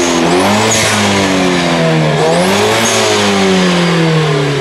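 A car engine free-revved while standing, climbing twice and falling back slowly after each rev. A faint high whistle rises and falls with each rev.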